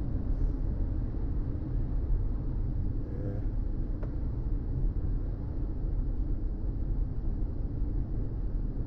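A car driving along a road, heard from inside: steady low rumble of the engine and tyres.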